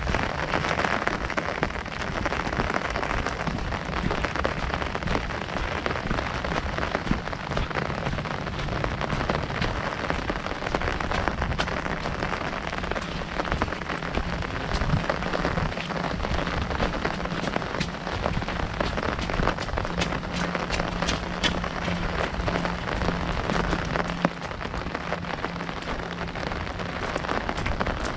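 Heavy rain falling on a large umbrella overhead: a dense, steady patter with many sharper individual drop hits scattered through it.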